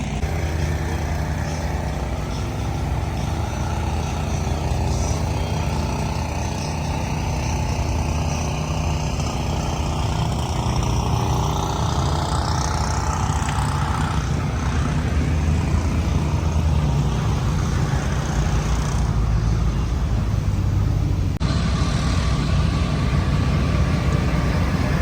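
Truck engines running, a steady low rumble. The sound changes abruptly about 21 seconds in.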